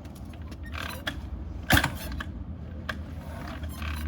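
S&S Shovelhead engine being kicked over on a cold start: clicks and clunks of the kick-start mechanism, with one loud thump about halfway through, and the engine does not catch.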